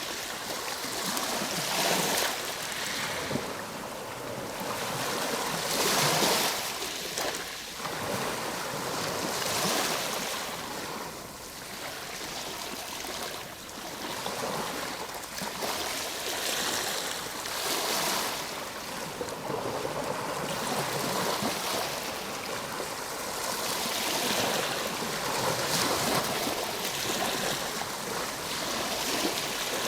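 Ocean waves breaking and washing on the shore, a steady rush of surf that swells every few seconds as each wave comes in.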